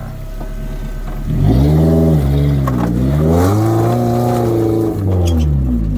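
Suzuki-based rock crawler's engine revving under load on a wet rock step: the revs climb about a second and a half in, dip briefly, rise again and hold, then drop away near the end.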